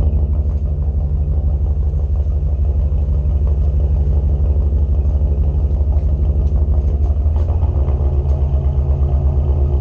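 Dirt bike engine running steadily with a low, pulsing rumble; its pitch shifts slightly about seven seconds in.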